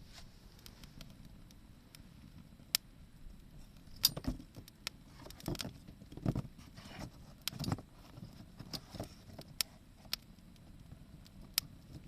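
Wood fire crackling, with scattered sharp pops and snaps. A cluster of louder knocks and rustles comes in the middle, like wood shifting in the fire.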